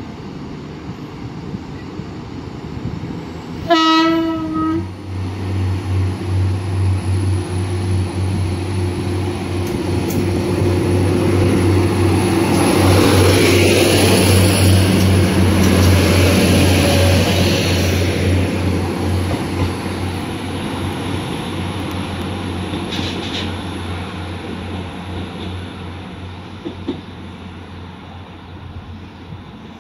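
A Class 175 Coradia diesel multiple unit sounds one short horn blast, then runs past along the platform, its diesel engines droning low. The sound builds to its loudest as the train passes, with wheel and rail noise, then fades away.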